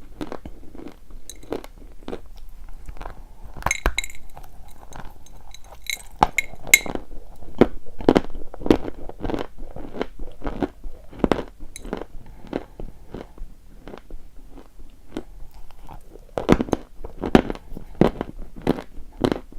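Close-miked chewing of chalk: crisp crunches repeating about twice a second. A few bright clinks come around four and six seconds in.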